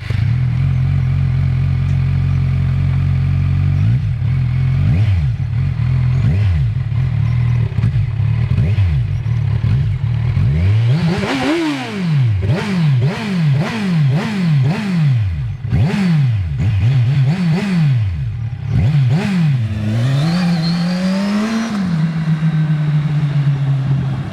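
Kawasaki Z1000's inline-four engine through a Yoshimura exhaust, idling and then revved. After a few light throttle blips it gets a run of about eight quick, sharp revs, then one longer rev, and drops back to a steady idle near the end.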